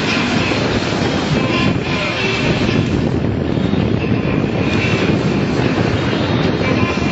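Police motorcycle engine running steadily as the bike is ridden through a control course.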